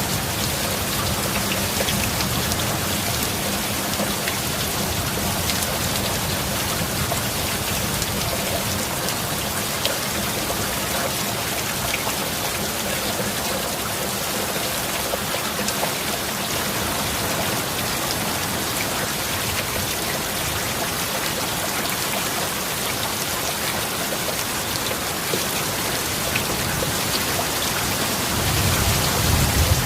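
Heavy rain falling steadily in an even hiss, with a low rumble of thunder swelling near the end.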